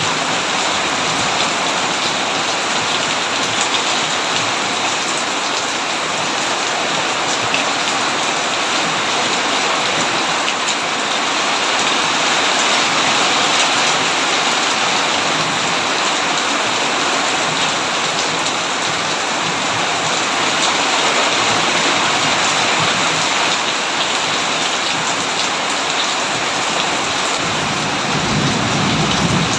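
Heavy, steady rain falling on a tin roof, with a low rumble of thunder swelling near the end.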